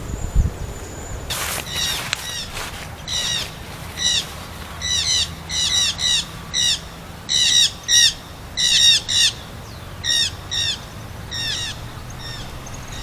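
A bird calling: a long series of short, repeated calls, singly and in quick pairs, beginning about a second in and going on for some ten seconds.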